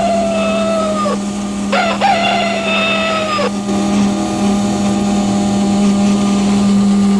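A rooster crowing twice, each crow a long held call that sags and drops at the end: the first ends about a second in and the second runs from just under two seconds to about three and a half. A steady low hum runs underneath throughout.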